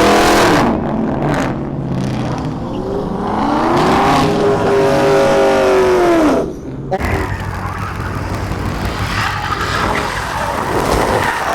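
A car's engine revving hard, rising and falling in pitch, with tyres squealing as in a burnout. The sound breaks off abruptly about six and a half seconds in, then engine and tyre noise carry on.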